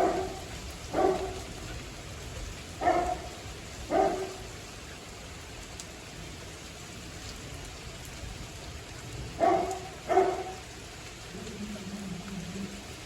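Steady rain falling, with a dog barking six times in pairs: a pair near the start, a pair a few seconds in, and a pair near the end, the barks being the loudest sounds. A brief low hum comes in near the end.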